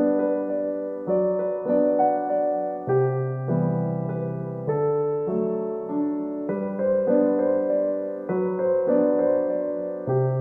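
Background music: slow, gentle piano, chords struck about once a second and left to fade.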